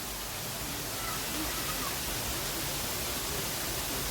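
Steady rushing of a waterfall, an even hiss with no breaks, with faint voices of other people over it.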